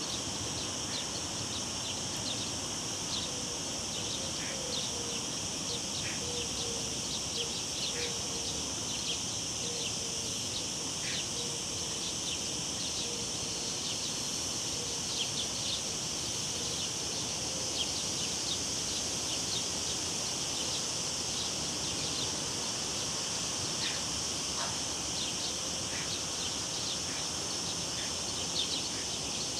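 Cicadas droning steadily in a continuous high buzz, over the even rush of a river, with short bird chirps scattered throughout.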